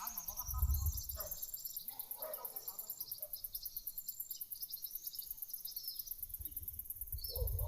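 Outdoor ambience: insects chirping in a steady, rapid, high-pitched pulse, with birds calling. Wind buffets the microphone with a low rumble about half a second in and again near the end.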